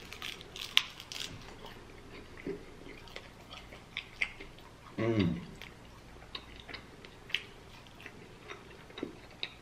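Close-mouthed chewing and biting of rotisserie chicken wing meat and skin: scattered wet clicks and small crunches. About halfway through comes one short voiced sound from the eater, falling in pitch, louder than the chewing.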